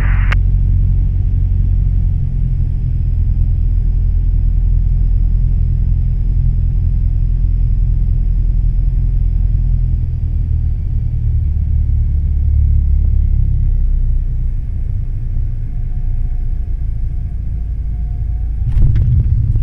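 Cessna 172 Skyhawk's four-cylinder engine and propeller droning steadily, heard inside the cockpit as a deep, loud rumble. Its low drone eases a little about two-thirds of the way through, and a couple of clicks come near the end.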